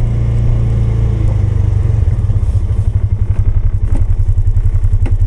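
Polaris 570 single-cylinder engine running under a plowing load. It holds a steady note, then about two seconds in drops to a lower, evenly pulsing chug, with a couple of light knocks near the end.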